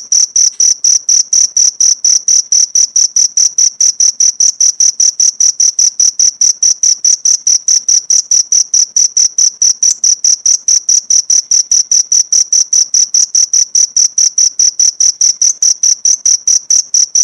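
Cricket chirping in a steady, even rhythm of about five high-pitched pulses a second, without a break.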